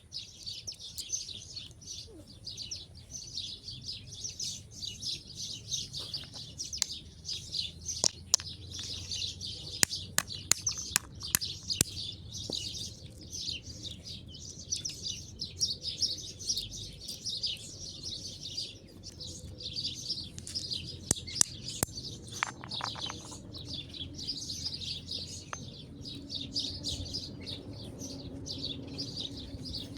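Many small birds chirping and twittering together without a break, with scattered sharp clicks or taps in the middle stretch.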